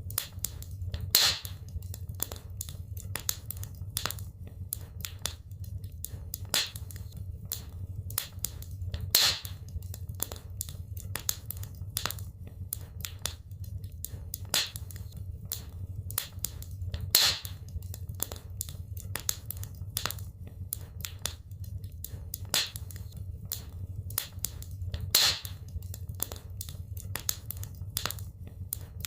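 Wood fire crackling in a fireplace: many small irregular pops and snaps over a steady low rumble. A louder pop comes about every eight seconds.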